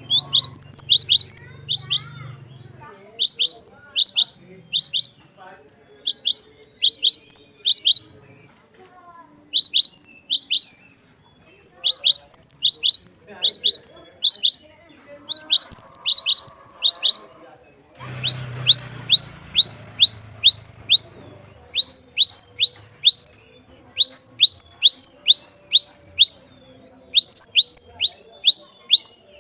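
Cinereous tit (glatik batu) singing: loud, rapid series of high, clear downward-slurred notes repeated in bouts of two to three seconds, with short pauses between bouts.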